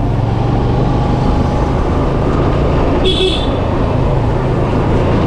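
Yamaha FZ V2 motorcycle's single-cylinder engine running steadily at riding speed, with wind and road noise. About three seconds in, a vehicle horn gives a short toot.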